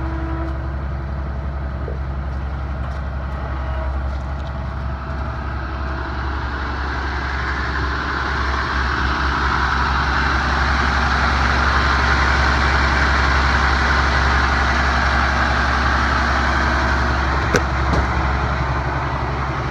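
Truck's 7.8-litre Isuzu diesel engine idling steadily. A hiss swells in the middle and fades again.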